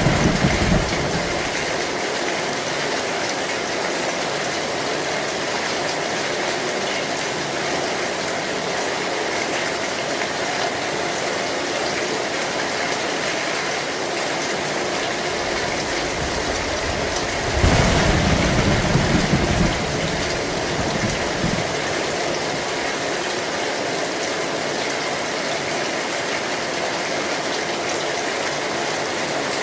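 Heavy rain pounding steadily on an old metal roof. A low thunder rumble fades out in the first second, and another rolls for about two seconds some eighteen seconds in.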